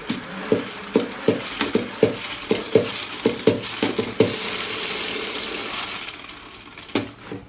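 Spin mop bucket's ratcheting spinner being pumped: a run of clicks, two to three a second, as the mop head whirls and flings water, then a swishing spin that fades away as it winds down. A single knock comes near the end.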